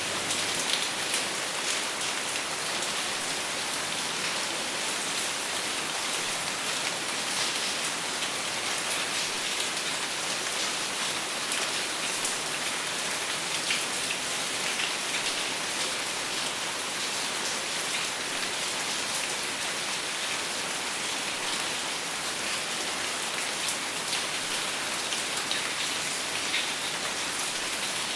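Steady heavy rainfall, with many individual drops pattering on a surface, without thunder.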